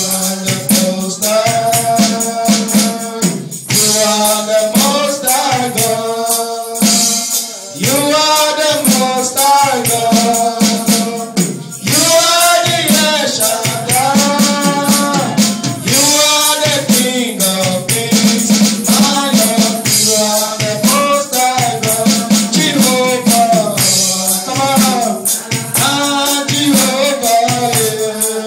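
Congregational worship singing with a tambourine and shakers keeping a steady beat.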